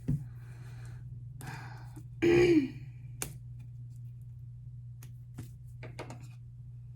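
Light knocks, clicks and rustles of album packaging being handled, over a steady low hum. About two and a half seconds in, a drawn-out sigh-like voice.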